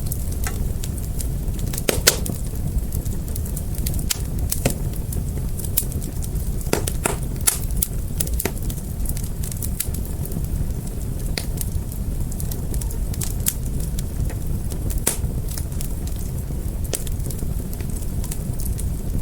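Wood fire burning, with a steady low rumble of flames and irregular sharp crackles and pops, a few louder ones standing out.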